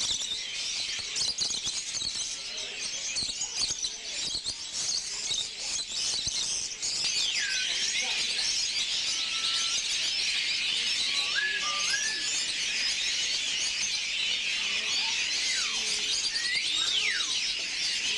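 Dense chorus of caged songbirds chirping, with clear whistled calls gliding up and down from about seven seconds in.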